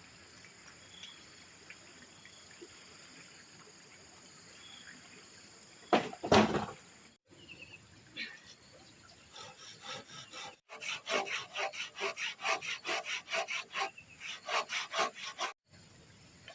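A hand saw cutting wood in quick, even back-and-forth strokes, about four a second, through the second half. About six seconds in there is one loud short knock or scrape.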